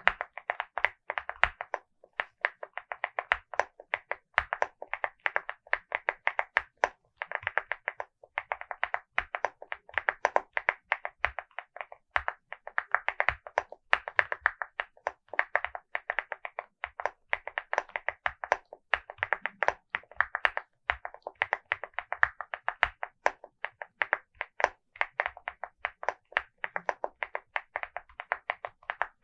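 Typing on a LEOBOG Hi75 mechanical keyboard with Vertex V1 switches and MOA-profile keycaps: quick runs of sharp keystroke clicks, broken by short pauses.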